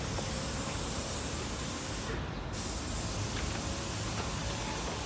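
A steady hissing noise, like a spray, whose high part cuts out briefly about two seconds in.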